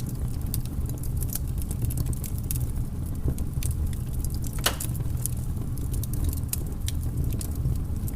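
Wood fire crackling in a fireplace: scattered sharp snaps and pops, one louder pop about halfway through, over a steady low rumble.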